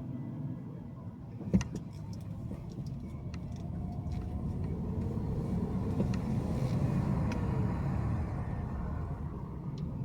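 Steady road and engine noise of a car being driven, growing louder for a few seconds in the middle as traffic passes. A single sharp click about one and a half seconds in is the loudest sound.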